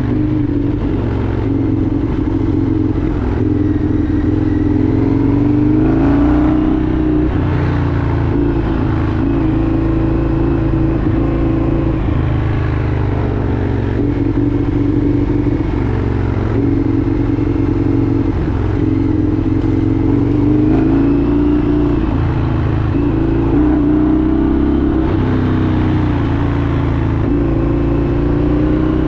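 Indian FTR 1200's V-twin engine running while riding, its pitch rising and falling several times as the throttle and revs change, over a steady low rumble.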